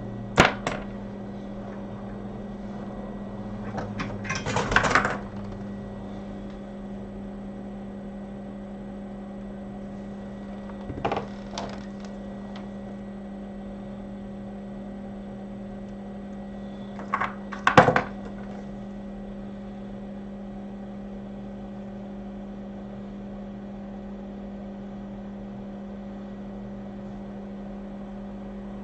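Steady electrical hum of running repair-bench equipment, with short clicks and clatters of small tools on the bench just after the start, around five seconds in, around eleven seconds and, loudest, around eighteen seconds.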